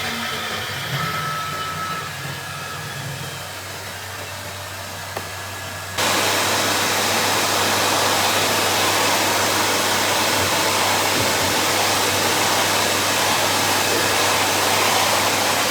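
CNC router running as it cuts a thick acrylic plate, a steady machine noise with a faint whine. About six seconds in it jumps abruptly to a much louder, even rushing noise that holds steady.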